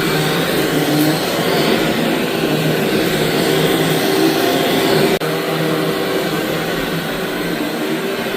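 Vacuum cleaner running steadily while being pushed over a dirty rug, with a brief dip in the noise about five seconds in.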